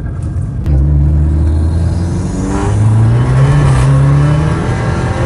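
Abarth 595's Stage 3 tuned (250 hp) 1.4-litre turbocharged four-cylinder and exhaust, heard from inside the cabin while accelerating: the engine note steps up in loudness just under a second in, rises in pitch from about two and a half seconds in, then falls near the end.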